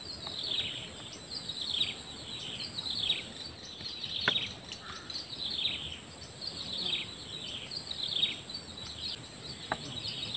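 A bird repeating a short, falling whistled call about once a second over a steady high-pitched whine.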